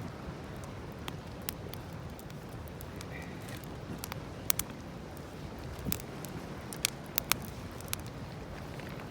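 Wood campfire crackling: scattered sharp pops and snaps, a few close together about four and a half and seven seconds in, over a steady low rush of the burning fire and open air.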